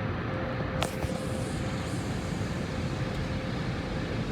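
Car engine running with a steady low rumble, heard from inside the car, with a faint steady whine over it and a single click about a second in.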